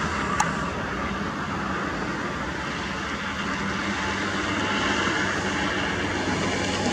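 Steady engine and tyre noise of a vehicle travelling at highway speed, with a low steady hum under the rush. A single short click sounds about half a second in.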